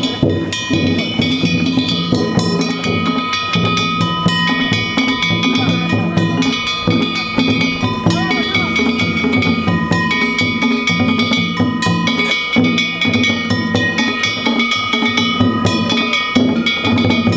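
Danjiri-bayashi festival music: a taiko drum struck in rapid, continuous strokes while metal hand gongs (kane) clang along in a steady ringing rhythm.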